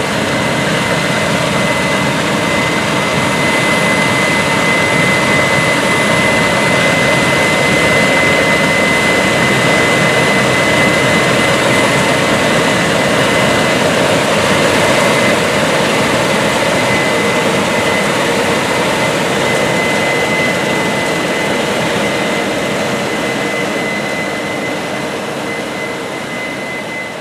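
Case IH 9240 Axial-Flow combine harvesting wheat: a steady, loud machinery drone with a constant high whine over it, fading away near the end.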